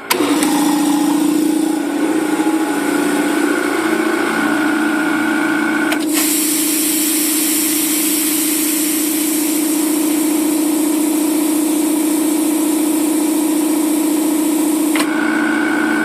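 Air Techniques L66 dental compressor's twin Copeland pumps switching on suddenly and running with a steady hum. About six seconds in, a loud hiss of air joins and cuts off abruptly some nine seconds later.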